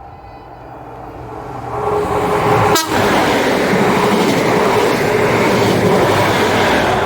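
High Speed Train (InterCity 125) passing through the station at speed, building from about a second in to a loud steady rush of noise. It sounds a one-tone horn about two seconds in, which is taken to be for the level crossing.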